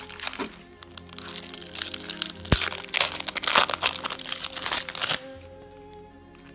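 Trading card pack wrapper being torn open and crumpled by hand: a dense run of sharp crackles that stops abruptly about five seconds in, over background music with steady held tones.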